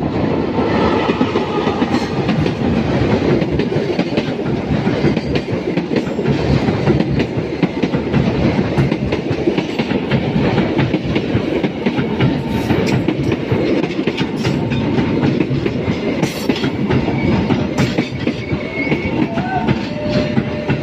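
Passenger train coaches rolling past close by: a steady, loud rumble with the wheels clattering over the rail joints.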